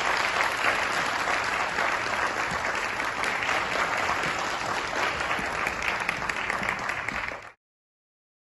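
Concert hall audience applauding steadily, then cut off abruptly about seven and a half seconds in.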